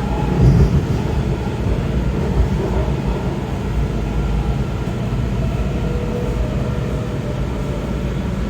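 Steady rumble inside a Kawasaki 7000-series Metrorail subway car running on the track, with a faint motor whine over it.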